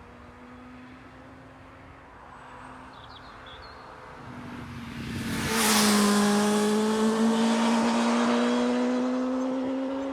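1989 Suzuki GSX-R750 Slingshot's inline-four engine as the motorcycle rides past: the note grows louder as it approaches, drops in pitch as it passes about five and a half seconds in, then climbs steadily as the bike accelerates away.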